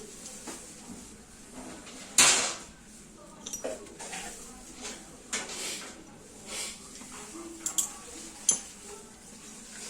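Metal parts and tools clanking and clinking as they are handled, about half a dozen sharp knocks, some ringing briefly. The loudest comes about two seconds in.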